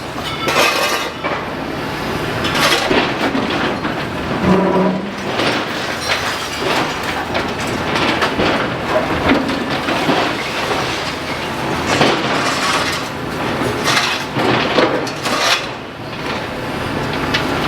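Building demolition: masonry and debris crashing, clattering and clinking in repeated irregular impacts as an excavator breaks the structure down.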